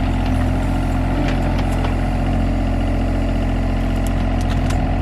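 John Deere 35G mini excavator's diesel engine running steadily, with a few faint clicks over it.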